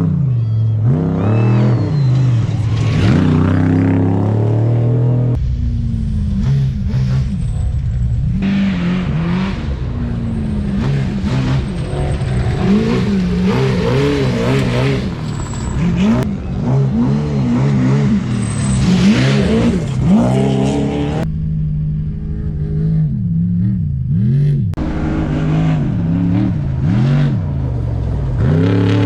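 Trophy trucks' V8 engines revving hard as they race past, the pitch climbing and falling with throttle and gear changes. Several passes follow one another, with the sound changing abruptly a few times between them.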